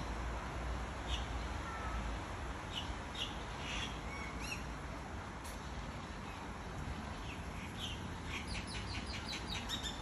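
Small birds chirping with short, high calls now and then, and a quick run of repeated chirps near the end, over a steady low rumble.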